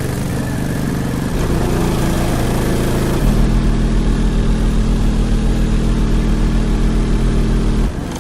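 Six JVF Customs 3.3 12-inch subwoofers in a sixth-order bandpass box playing sustained deep bass notes very loudly. The note steps lower about a second in and again about three seconds in, holding a very deep, pulsing note, then cuts off near the end.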